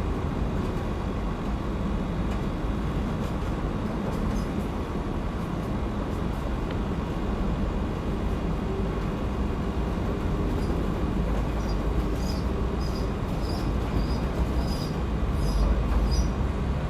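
A steady low rumble, like a vehicle running. In the second half comes a run of short, high chirps, about two a second.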